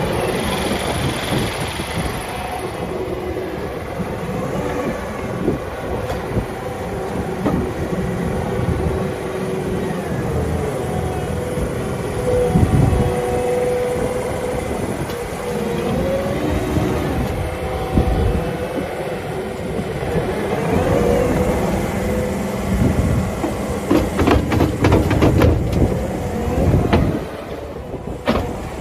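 Takeuchi TL12V2 compact track loader running, its engine a steady rumble with a faint tone that wavers in pitch, and a run of rattling knocks near the end.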